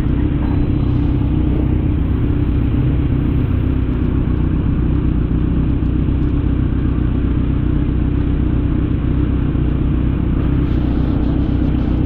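Motorcycle running at a steady cruise, its engine under heavy wind rumble on the camera microphone.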